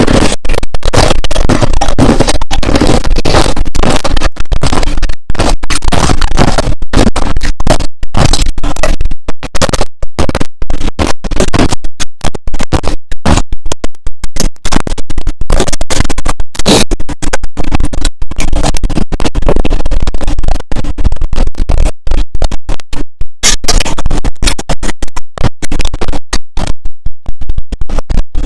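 Loud, close-up crunching of clear ice and powdery crushed ice being chewed, a dense run of crackling bites broken by many short pauses.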